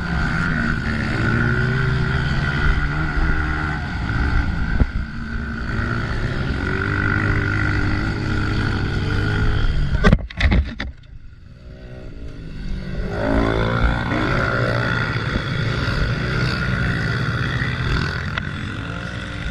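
Honda CRF125F dirt bike's small single-cylinder four-stroke engine running under varying throttle, its pitch rising and falling. About halfway through there are a few sharp knocks, the engine sound drops away for a second or two, then climbs in pitch again as it is revved back up.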